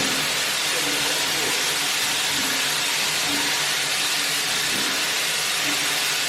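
Steam locomotive venting steam: a steady, even hiss with no break.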